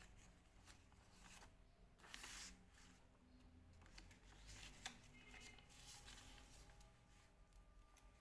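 Faint sheet of paper being handled and folded: soft rustles and a few light crinkling clicks as folds are creased.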